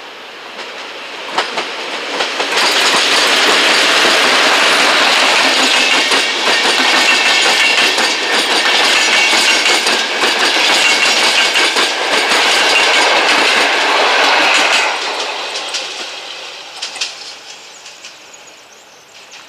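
A PKP class EP09 electric locomotive and its passenger coaches passing, the wheels clacking over rail joints. The sound builds over the first couple of seconds, stays loud for about twelve seconds while the coaches go by, then fades as the train moves away.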